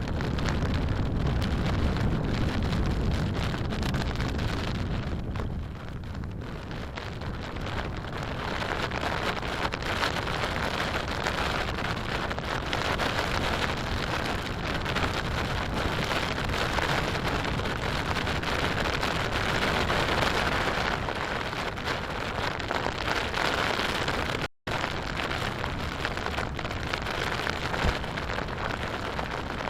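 Torrential rain pouring down in a dense, steady hiss. During the first few seconds there is a strong low wind rumble. The sound cuts out for an instant about twenty-five seconds in.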